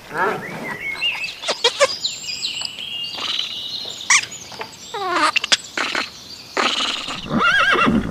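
Bird calls: a busy run of varied whistles, chirps and squawk-like notes, many gliding in pitch. Near the end a louder call with a wavering pitch comes in.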